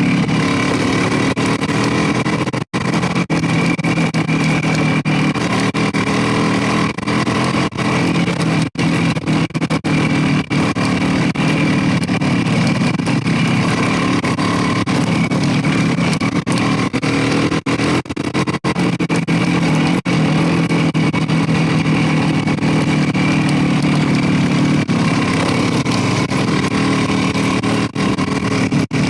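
Motorcycle engine running at a steady pitch while riding, with a few very short gaps in the sound.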